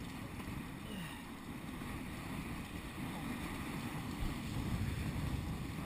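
Wind buffeting the microphone and water rushing along the hulls of a Nacra 5.2 sailing catamaran under way: a steady low rumble and hiss with no engine, swelling a little about four seconds in.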